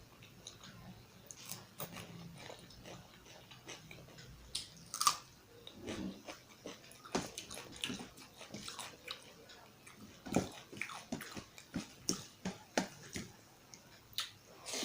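Close-up eating sounds: a person chewing and biting food with irregular wet mouth smacks and clicks, several a second in the second half.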